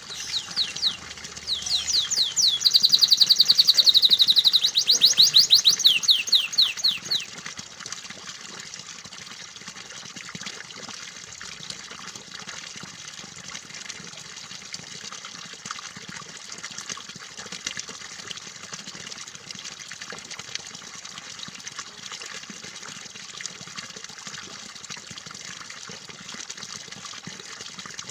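A canary sings fast trills of rapidly repeated high notes for the first seven seconds or so. Under it, steady running, trickling water goes on throughout.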